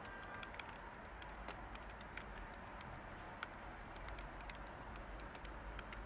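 Light, irregular typing on a computer keyboard: scattered soft key clicks over a steady white-noise hiss.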